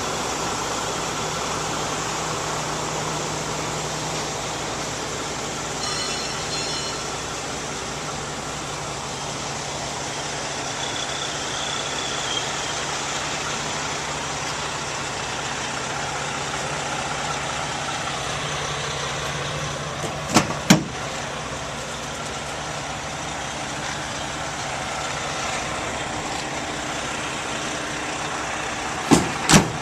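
Pickup truck engine idling steadily, with two pairs of sharp knocks, about two-thirds of the way in and again near the end.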